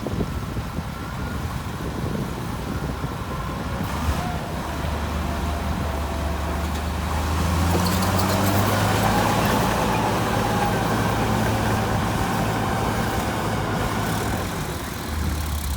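Heavy diesel earthmoving machine running steadily. Its low engine note strengthens about four seconds in, grows louder about halfway through, and eases briefly near the end.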